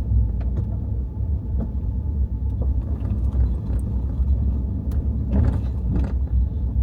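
Vehicle driving on an unpaved dirt road: a steady low rumble of tyres and running gear, with scattered small clicks and rattles.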